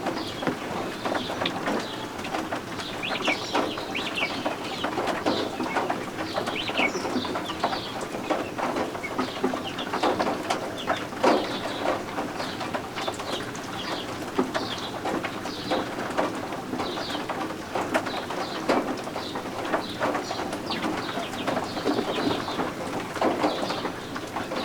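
Baby guinea fowl keets peeping: many short, high chirps from several chicks, overlapping continuously.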